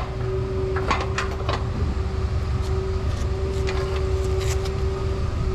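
An engine running steadily with a low rumble and a constant hum, and a few short clicks and taps from work on the machinery.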